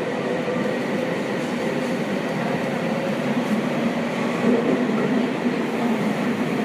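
Seibu 6000 series commuter train, the Hitachi GTO-VVVF set, heard from inside the car as it runs through the subway tunnel: a steady rumble of wheels and running gear, with a faint steady tone under it.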